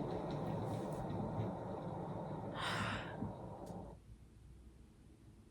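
A woman's breathy sigh about halfway through, over a low background sound that fades out a few seconds in, leaving near silence.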